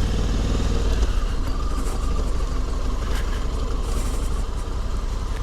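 Honda Africa Twin CRF1100L's 1084 cc parallel-twin engine running steadily at low revs as the motorcycle rides off.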